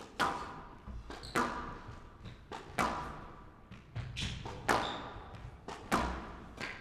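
Squash rally: the ball cracking off rackets and the court walls, a sharp hit roughly every second or so, each ringing on briefly in the hall.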